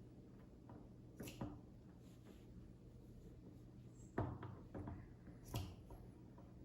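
A few short, sharp scissor snips cutting fleece fabric into fringe strips, spaced irregularly, over a faint steady room hum.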